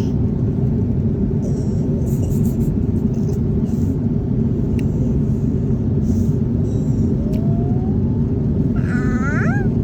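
Steady low rumble of an airliner cabin in flight, the jet engines and airflow heard from inside the cabin. Near the end a child's voice gives a brief rising sound.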